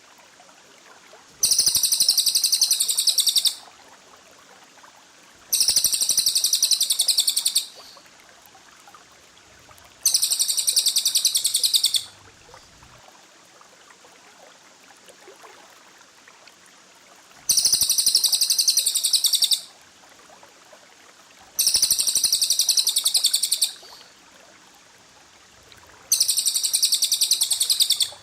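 A songbird's rapid, tightly packed high-pitched trill in six bursts of about two seconds each, a few seconds apart, over a faint steady hiss.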